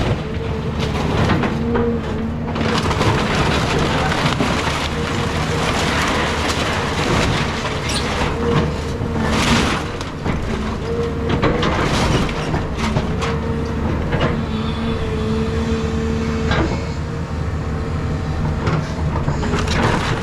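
Caterpillar 323 excavator's diesel engine running under load, with a hydraulic whine that rises and fades as the arm works. Wood and debris crack and crunch throughout, with sharper snaps about eight, nine and a half, twelve and sixteen and a half seconds in, as the house is torn down.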